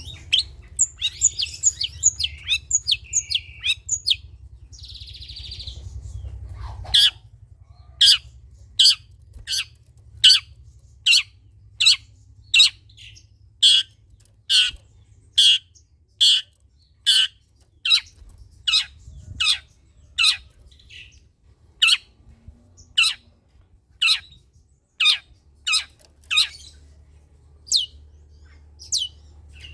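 Long-tailed shrike (cendet) calling: a quick run of chirps for the first few seconds, then a long series of harsh, evenly spaced squawks, a little more than one a second, over a faint low hum.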